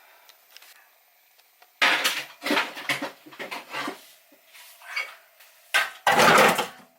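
Kitchenware clattering: dishes, pots and cutlery knocking together in quick handling, with a louder, longer clatter near the end.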